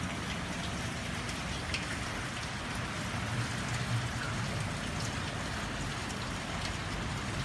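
Steady rain falling, with scattered drops ticking close by over a low, even rumble.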